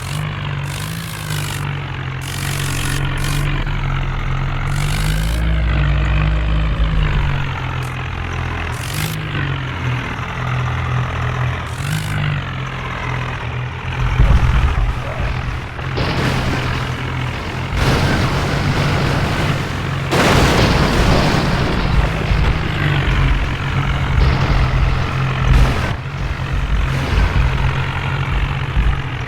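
Diesel tractor engines of a Mahindra and a Sonalika 60 running hard, the engine note swelling up and down as they are revved, with louder, rougher stretches in the second half.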